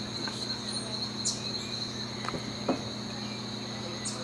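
Steady high-pitched trilling of tropical insects, crickets or katydids, over a low steady hum, with a few faint clicks.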